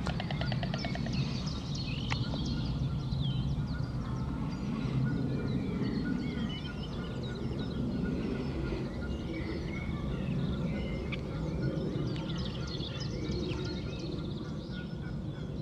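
Several wild birds singing and calling: many short chirps and whistles, with a quick rattling trill near the start, over a steady low rumble.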